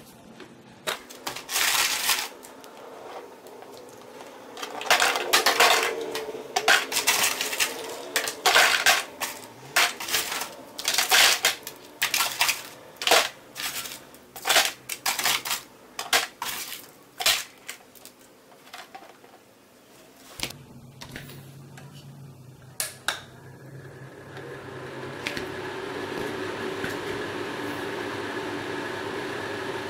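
Hard objects clattering and knocking against each other in irregular bursts, then a small electric fan of a homemade air cooler starts up about twenty seconds in and runs with a steady whirr.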